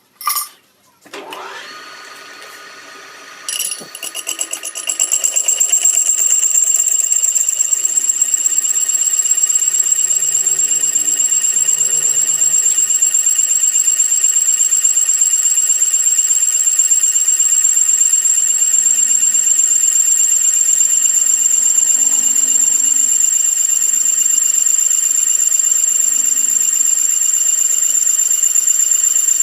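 A metal-cutting machine tool running with a loud, steady high-pitched whine and a fast pulsing. It spins up with a rising tone about a second in and gets louder a few seconds later.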